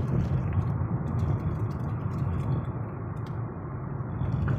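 Steady low rumble of a moving car's engine and road noise heard from inside the cabin, with a few faint clicks.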